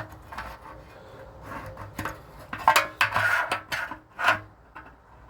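Irregular light metallic clatter and scraping as the steel motorcycle gas tank is handled and shifted, loudest about three seconds in.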